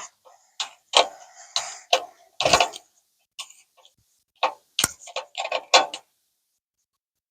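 Hand tools working a bumper bolt and nut: about a dozen irregular sharp metallic clicks and clinks of a wrench and screwdriver on the fastener, which stop about six seconds in.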